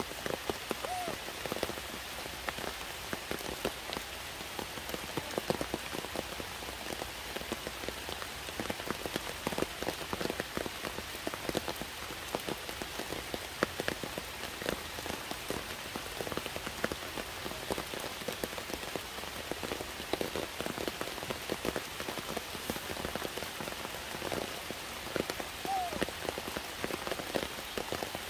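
Steady heavy rain falling on dense foliage and the ground, a constant patter of many small drops. A faint short call rises over it about a second in and again near the end.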